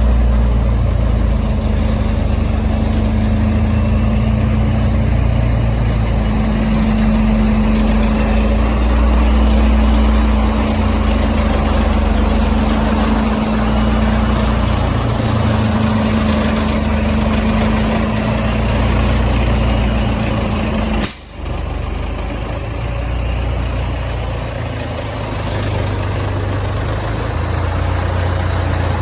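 Leaf vacuum truck's diesel engine running steadily, with a low hum and a steady tone above it. About two-thirds of the way through the sound drops out for an instant and the tone stops, then the engine keeps running.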